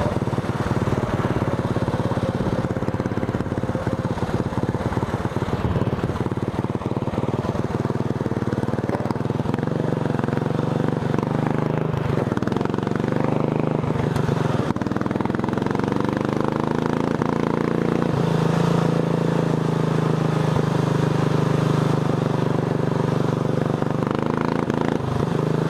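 Racing lawn tractor's engine running while being driven, with a rattly, uneven sound in the first half; about two-thirds of the way in the revs climb and then hold high.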